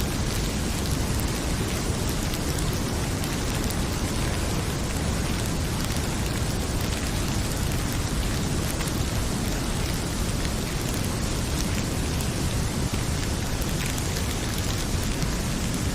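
Heavy rain pouring steadily, with faint scattered crackles of a wood fire.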